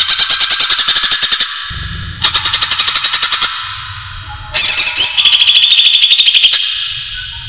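Cucak ijo (greater green leafbird) calls played as a bird-trapping lure: rapid chattering trills of about a dozen sharp notes a second, in three bursts with short pauses. A low hum fills the pauses.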